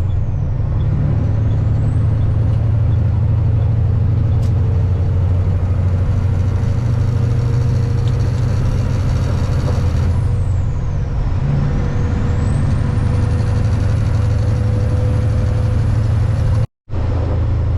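Semi-truck's diesel engine running steadily while driving: a continuous low drone with a faint steady whine above it. The sound cuts out completely for a split second near the end.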